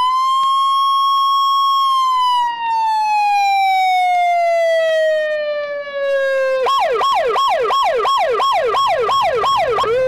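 Russian police car siren: one long wail that rises, holds high, then slowly falls, switching about two-thirds through to a fast yelp of about three sweeps a second.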